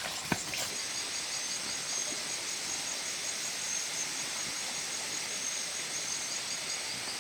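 Insects chirring in a steady, high-pitched chorus, with a single sharp click shortly after the start.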